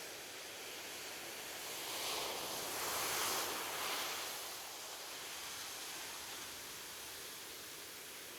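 Ocean surf on a beach: a steady wash with a wave swelling and breaking about two to four seconds in, then easing back.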